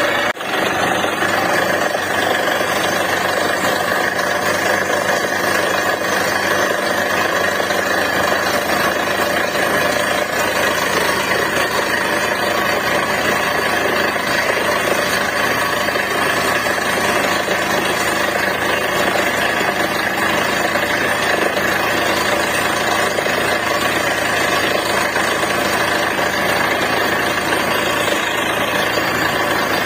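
Truck-mounted borewell drilling rig running steadily at a constant loud level: its engine and machinery drone with a dense, even noise. The level dips briefly just after the start.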